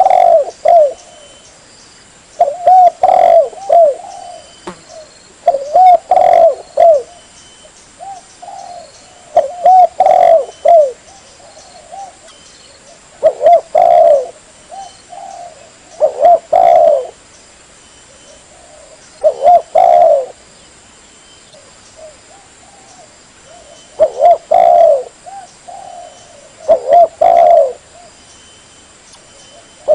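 Spotted dove (tekukur) cooing: a phrase of a few soft, low coos, repeated about every three seconds.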